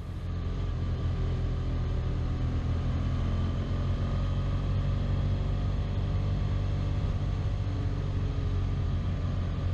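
Motorcycle engine running steadily at cruising speed while riding, a continuous low rumble mixed with road and wind noise.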